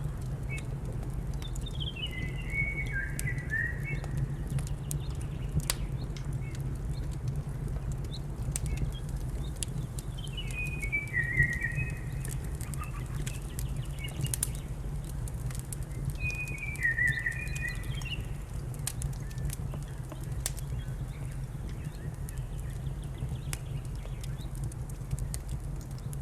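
Wood fire crackling, with scattered sharp pops over a steady low rumble. A bird calls three times, each call a short phrase stepping downward in pitch.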